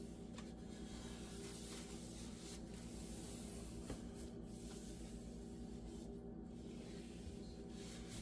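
Pad rubbing across a glass-ceramic cooktop, wiping off the polish, with a few faint clicks over a steady low hum.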